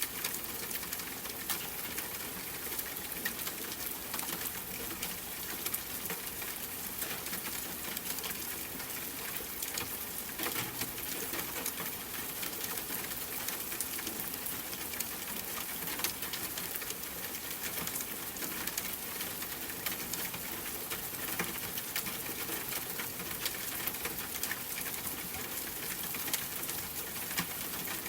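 Steady rain pattering, a constant hiss sprinkled with many small drop ticks.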